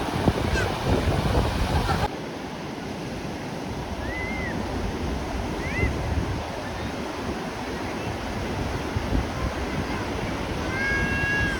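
Sea surf breaking and washing on a beach, with wind buffeting the microphone; the noise drops sharply about two seconds in. A few short high calls sound over it, and a longer held one near the end.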